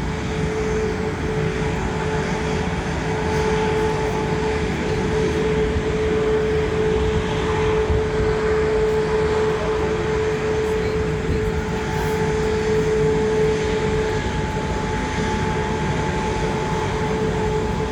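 Airbus A330-900's Rolls-Royce Trent 7000 jet engines running steadily: a constant whine over a broad rumble, holding the same pitch throughout.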